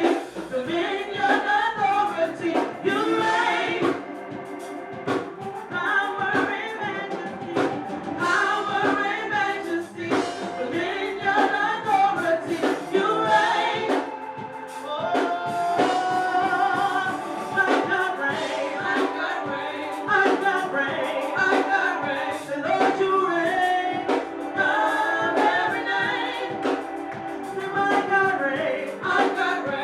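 Gospel singing by a choir with instrumental accompaniment and a steady beat.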